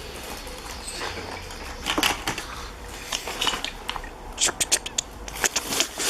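Small die-cast metal toy vehicles being handled and moved about: scattered sharp clicks, knocks and scrapes, a few around two seconds in and a quicker run of them in the last two seconds.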